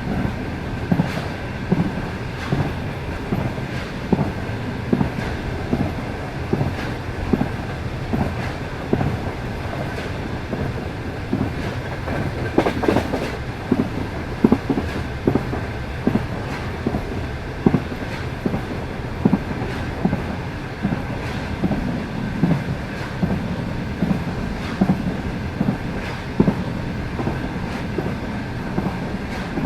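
Passenger train running at speed, its wheels clicking over the rail joints: a clack about every second and a half over a steady rolling rumble.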